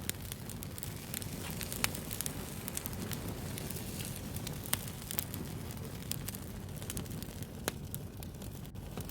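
Wood fire burning, with a steady low rumble of flames and dense crackling. A few sharper pops stand out about two, five and eight seconds in.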